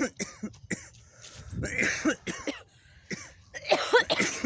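A person coughing in several harsh fits, with throat clearing between them. The loudest fit comes near the end.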